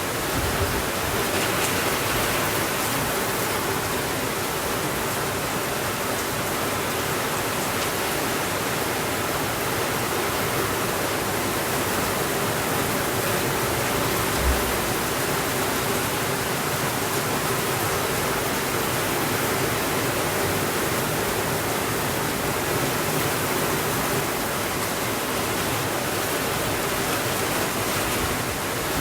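Steady rainfall, an even hiss, with one brief low thump about halfway through.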